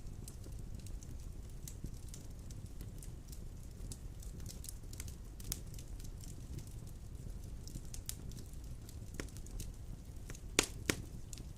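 Wood fire crackling in a fireplace: scattered small crackles over a low, steady rumble of flame, with two sharp pops in quick succession near the end.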